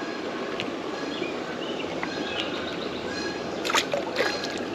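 Steady rush of flowing creek water, with small birds chirping and geese honking a couple of times near the end.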